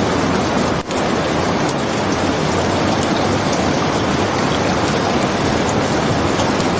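Steady heavy rain, a dense even hiss, with one brief dip in level just under a second in.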